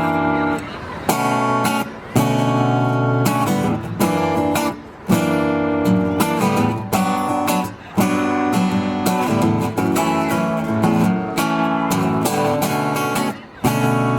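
Acoustic guitar strummed in rhythmic chords, the instrumental opening of a song, with brief pauses between phrases.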